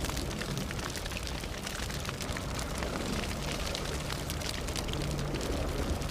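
Fire burning: dense, irregular crackling and popping over a steady low rumble.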